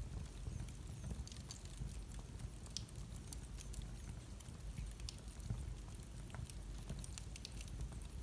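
Wood fire burning in a fireplace: a steady low rumble with irregular small crackles and pops.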